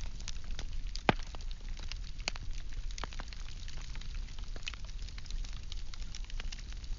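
Wood fire burning: logs crackling with irregular sharp pops and snaps, one loud pop about a second in, over a steady low rumble.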